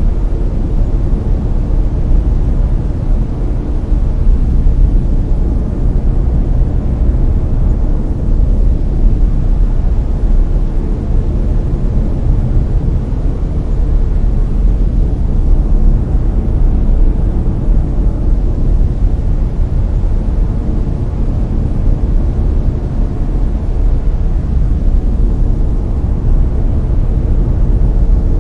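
Layered brown noise: a steady, deep, even rumble of random noise with most of its energy at the bottom and little hiss on top.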